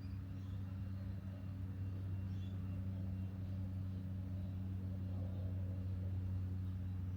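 Robotic lawn mower running with a steady low mechanical hum.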